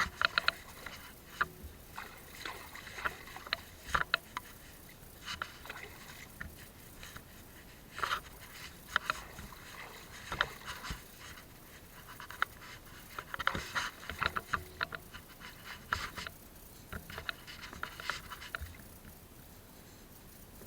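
Gill net being handled by hand in a small wooden boat: bursts of light scrapes and clicks, coming in clusters every few seconds.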